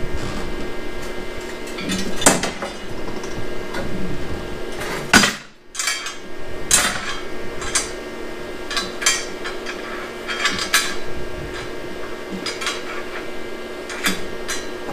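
Steel parts and tools clanking and knocking against each other at irregular intervals, over a faint steady hum.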